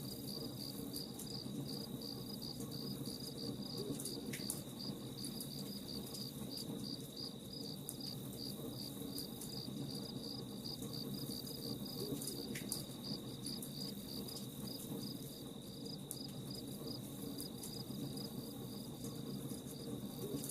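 Crickets chirping in a steady rapid pulse, about three chirps a second, over a continuous high insect trill, with scattered sharp pops of a crackling campfire, two of them louder about four and twelve seconds in.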